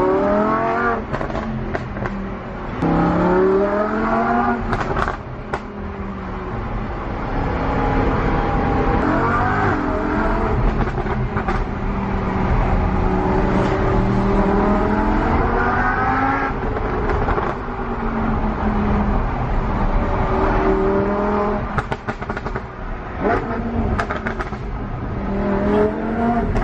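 Lamborghini Huracan's V10 engine through an iPE valved exhaust with the valves open, accelerating hard. Its note rises in pitch and drops at each upshift, several times over. Near the end there are a few sharp pops.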